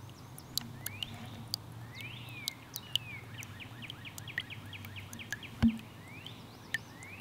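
Small birds chirping and calling in the woods, including a fast trill of repeated notes in the middle. There is a single low thump about five and a half seconds in.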